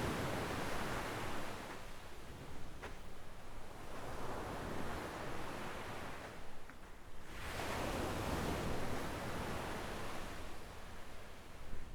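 Small waves breaking and washing up a sandy shore, the surf swelling and falling back about every three to four seconds.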